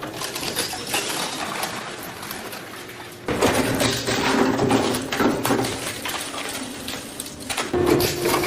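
Industrial shredder chewing up a toy cement mixer truck: dense crunching and clattering of the toy breaking apart over the steady hum of the shredder's motor, growing louder about three seconds in and again near the end.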